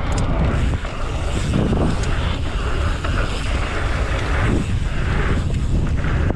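Strong wind buffeting the microphone: a loud, steady low rumble. Over it is the rushing of a mountain bike's tyres rolling over the pump track, swelling and easing a few times.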